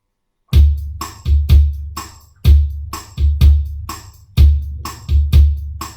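Drum machine beat starting about half a second in: a repeating pattern of deep kick-drum thumps topped with cymbal hits, the same figure coming round about every two seconds.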